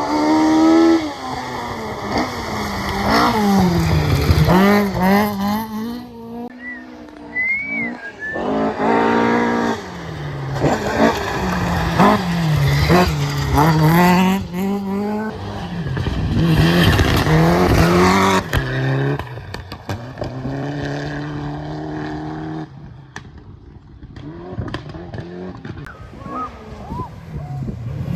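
Rally car engine driven flat out on a stage, revving high and dropping again and again through gear changes. It quietens about five seconds before the end as the car draws away.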